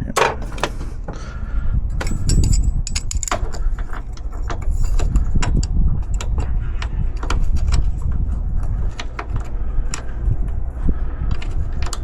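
Irregular metallic clicks, clinks and knocks of bolts and hardware being handled and fitted, over a steady low rumble.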